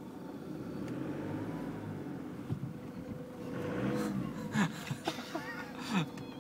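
Car engine idling steadily, heard from inside the car.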